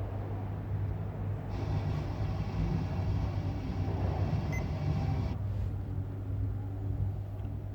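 Steady low hum of a car engine idling. A hiss starts about a second and a half in and cuts off suddenly after about five seconds.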